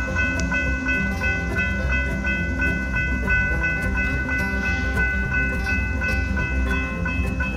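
Approaching freight train's diesel locomotives running with a steady low rumble. A high, bell-like ringing repeats rapidly over it.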